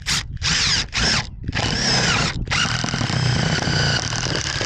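Cordless power drill running in four short bursts, its whine speeding up and slowing, then one longer steady run of about two seconds, drilling or driving screws into the siding boards.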